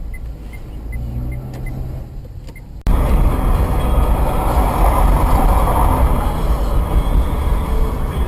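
Car noise picked up by a dashcam: a low engine hum with faint regular ticking about three times a second. About three seconds in it cuts abruptly to a much louder, steady rush of engine and road noise.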